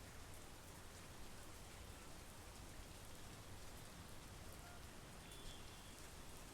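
Faint, steady monsoon rain falling, an even hiss with no break.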